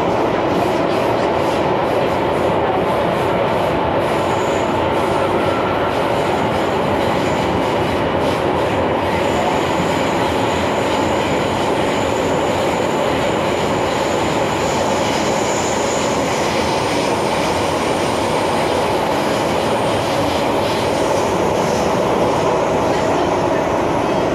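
MTR Kwun Tong line M-Train (Metro-Cammell electric multiple unit) running at a steady speed: a constant rumble of wheels and traction. Faint clicks come from the track in the first third, and a thin high squeal is held for several seconds around the middle.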